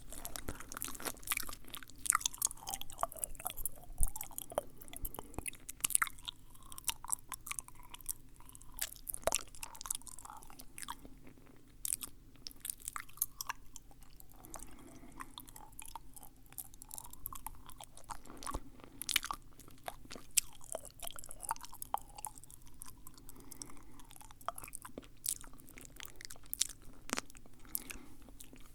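Close-miked ASMR mouth sounds: a dense, irregular run of sharp little clicks and smacks from the lips and tongue.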